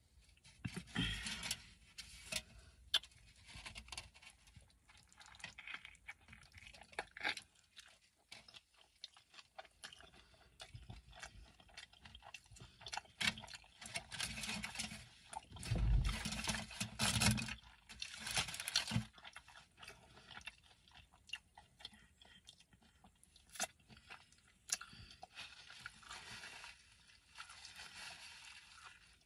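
Close-up eating sounds: a burrito in a flour tortilla being bitten and chewed, in irregular bursts, with a louder stretch of chewing about halfway through.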